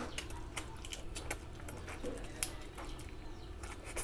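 Close-miked eating sounds: chewing with many irregular wet mouth clicks and smacks.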